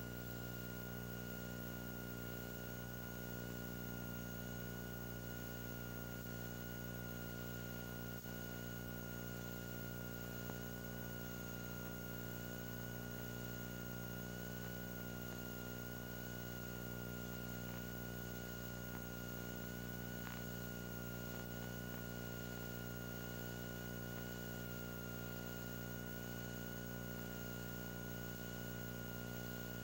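Steady electrical hum with hiss and a thin high whine on top, unchanging throughout: the noise of an old dashcam audio track rather than any sound of the scene.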